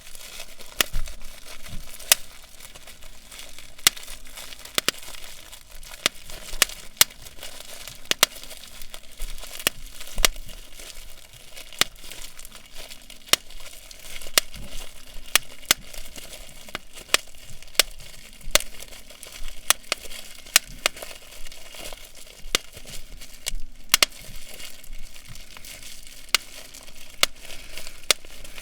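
Bubble wrap being handled and popped: a long run of irregular sharp pops, several a second, over steady crinkling of the plastic.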